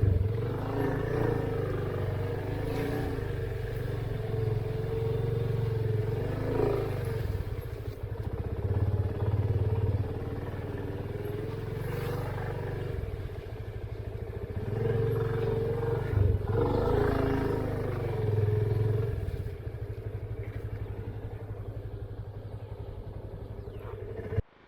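Motorcycle engine running at low speed, its note swelling and easing several times as the bike is ridden. It cuts off abruptly near the end.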